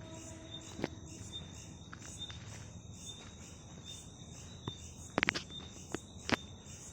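Crickets chirping in a steady night chorus, a high trill with a regular pulsing rhythm. A few sharp clicks cut through it, the loudest a quick cluster about five seconds in.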